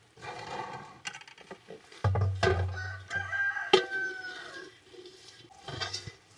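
A rooster crowing: a short call, then a longer crow with a drawn-out held note. A sharp knock comes partway through the long crow.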